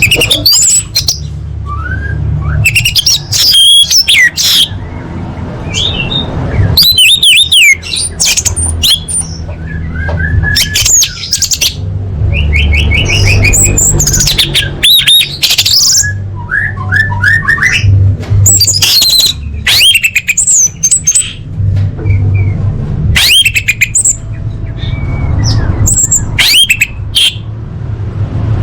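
Female orange-headed thrush (anis merah) singing: a varied run of high whistles, quick trills and squeaky sliding notes with short pauses between phrases, over a steady low hum.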